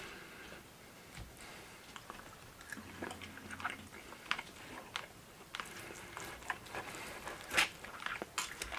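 A person biting and chewing food close to the microphone, with scattered small clicks and crackles.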